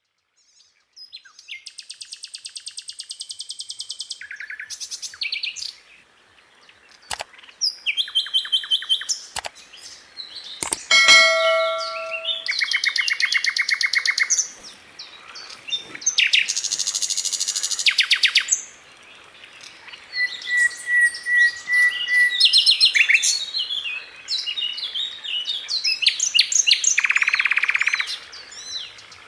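A Sikatan Londo flycatcher singing a varied song of very fast, tightly spaced trills and chattering phrases, high-pitched and broken by short pauses. Around the middle comes a brief ringing, bell-like phrase, and later a short steady whistled note.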